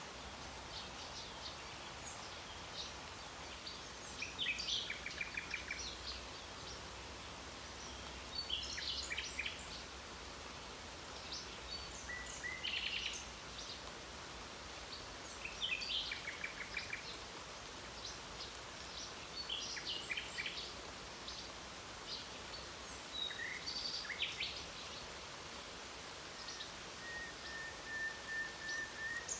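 Common nightingale singing in separate phrases every few seconds: rapid trills of repeated notes, chirps, and one long held whistle near the end. Underneath runs the steady hiss of rain.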